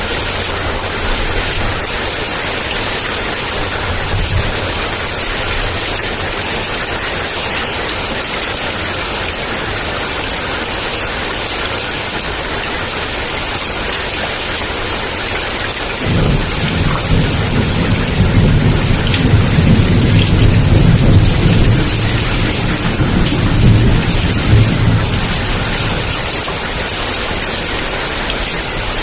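Heavy rain falling in a steady downpour. About halfway through, a deep roll of thunder sets in suddenly, rumbles for about ten seconds and fades.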